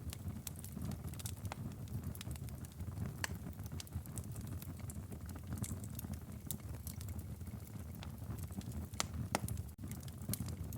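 Wood fire in a fireplace crackling: frequent irregular sharp pops and snaps over a low steady rumble of the flames, with a couple of louder pops near the end.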